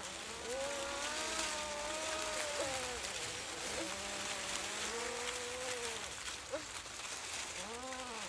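Women's voices singing long wordless tones that swell and fall in pitch, about three held notes with sometimes two voices at once, over a steady hiss.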